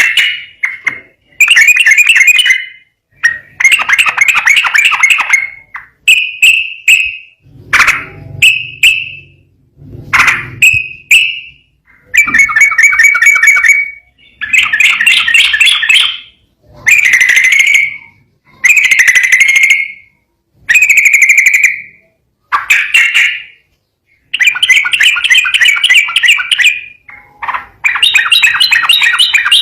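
Sooty-headed bulbul (trucukan) singing: one phrase after another of rapid chattering notes, each phrase a second or two long, divided by short pauses.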